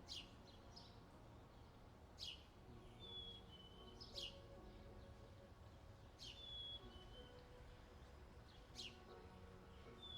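Faint bird calls over a low, steady outdoor rumble: a sharp downward chirp about every two seconds, with shorter falling whistles in between.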